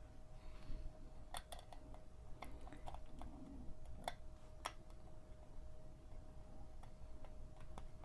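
Scattered light clicks and taps of small parts and a tool being handled on a Singer 223 sewing machine during reassembly, over a faint steady hum.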